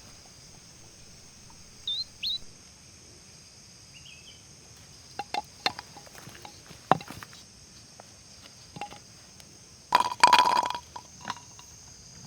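Outdoor ambience with a steady high hiss, two short rising bird chirps about two seconds in, scattered clicks and knocks, and a louder rough knocking burst about ten seconds in.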